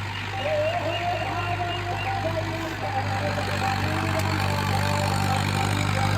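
Tractor diesel engine running steadily at a low, even speed, growing slightly louder toward the end.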